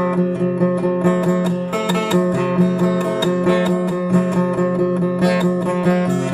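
Guitar played solo: quick picked notes in an even rhythm over steadily ringing low notes.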